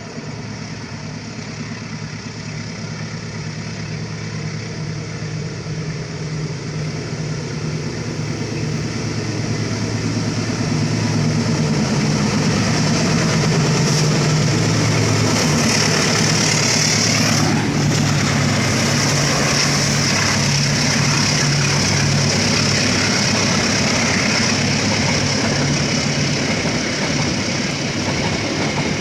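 Diesel locomotive hauling a train, its engine drone growing louder over the first ten seconds as it approaches, then holding loud as it runs past. Wheels hiss on the rails, and the pitch sweeps down a little after halfway as the locomotive goes by.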